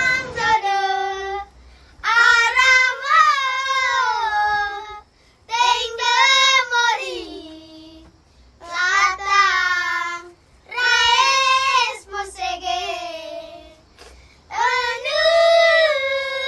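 A child singing alone in a high voice, phrases of a second or two with short pauses for breath between them.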